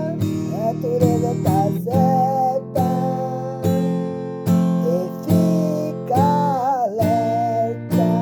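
Instrumental passage of a song: an acoustic guitar strummed in a steady rhythm, a chord about every second, with a held melody line above it that bends in pitch.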